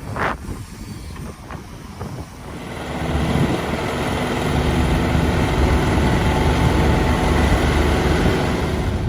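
A heavy engine, typical of construction machinery, running. It grows louder about a third of the way in, then holds steady and loud. A sharp knock comes just at the start.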